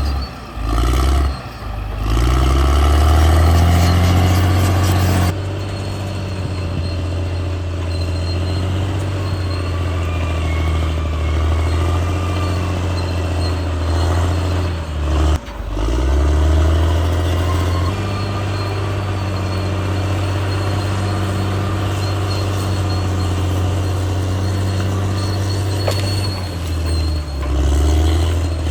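CAT D6R XL bulldozer's diesel engine running hard under load. Its pitch sags and picks back up about a second in, again about halfway, and near the end.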